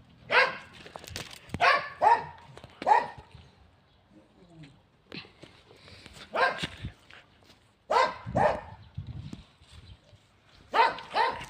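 Dog barking: short barks in groups of one to three, about nine in all, with pauses of a second or more between the groups.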